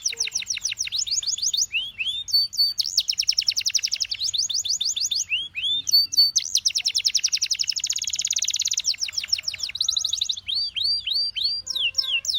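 Canary singing: fast trills of rapidly repeated down-slurred notes, each roll lasting a second or two, broken by short swooping calls between them.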